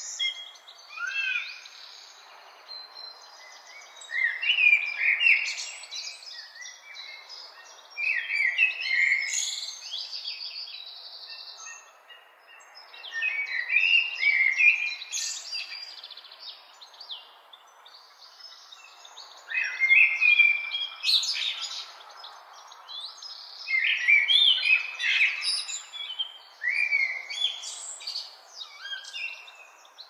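Several songbirds singing and calling: chirps and short gliding notes come in bursts every four or five seconds. A faint steady background noise runs beneath them.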